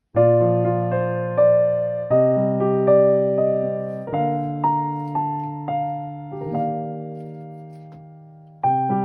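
Background music: a gentle electric piano playing chords and a simple melody, each note struck and fading. A long chord dies away before a new phrase begins near the end.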